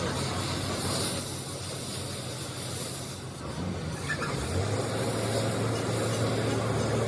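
An engine running steadily with a low hum, which becomes stronger and steadier about four and a half seconds in.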